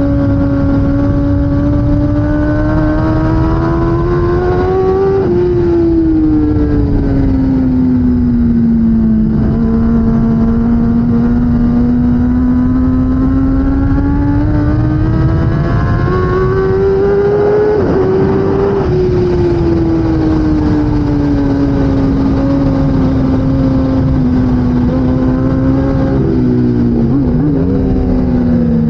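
Kawasaki ZX-10R superbike's inline-four engine racing at high revs. The pitch climbs and falls as the throttle opens and closes through corners, with a sudden jump partway through and a quick series of pitch changes near the end as gears are shifted, over steady wind rush.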